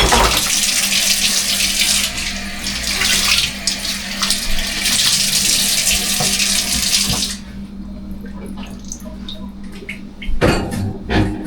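Kitchen sink tap running, shut off about seven seconds in. After it, light clicks and knocks of things being handled, with louder knocks near the end.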